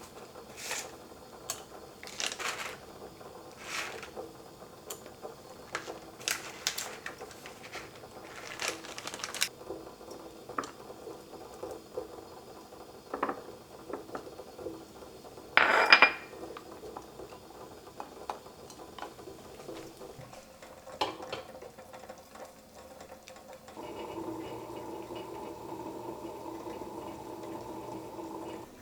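Kitchenware being handled: dishes and utensils clinking and knocking, with one louder clatter about halfway through. In the last few seconds a steady, even rushing sound starts and holds.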